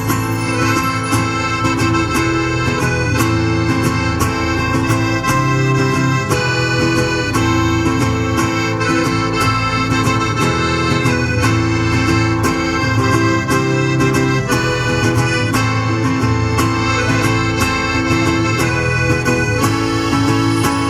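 Chilote folk music led by accordion, playing continuously with a steady beat.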